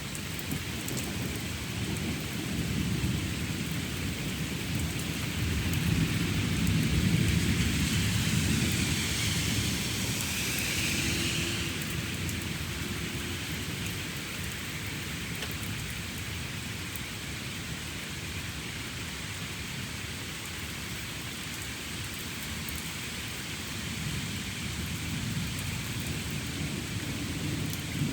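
Steady rain falling during a thunderstorm, with a long low rumble of thunder that swells about five seconds in and dies away a few seconds later, and a fainter rumble near the end.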